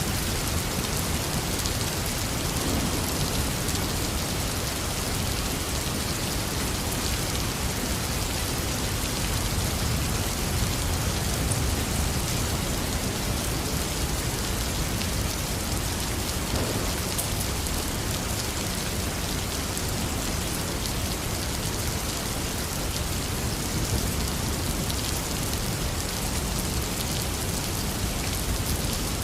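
Heavy, steady rain pouring down, with a low rumble underneath.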